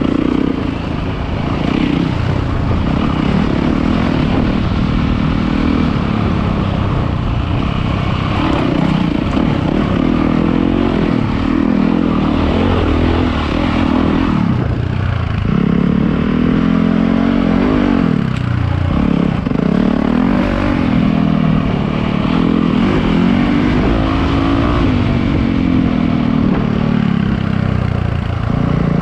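Dirt bike engine ridden on a rough trail, its revs rising and falling over and over with the throttle, heard from on the bike.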